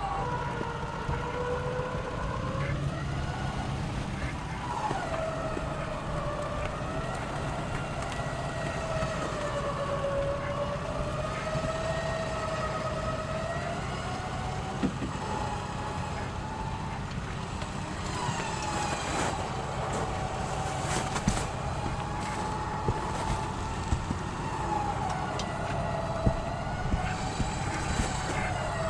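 Tracked recovery vehicle working under load, its engine running with a whine that slowly rises and falls in pitch, while it pulls a stuck pickup out of the mud. A few sharp knocks come in the second half.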